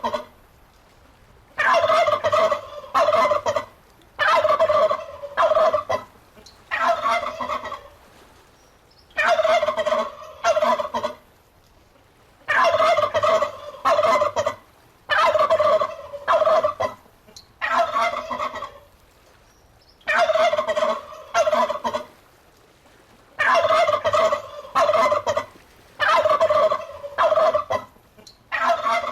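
Turkey gobbling over and over, each rattling gobble lasting one to two seconds with short pauses between, about ten in all.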